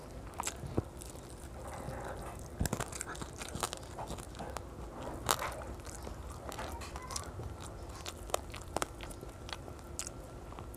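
A child chewing and biting a mouthful of rice and fish curry, with irregular sharp mouth clicks and wet eating noises.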